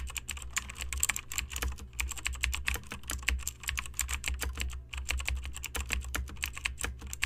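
Computer keyboard typing sound effect: rapid, irregular key clicks over a low steady hum.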